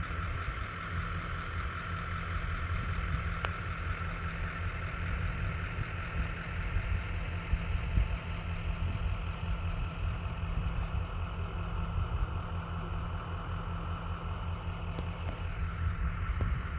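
A vehicle engine idling steadily: an even low hum that does not change.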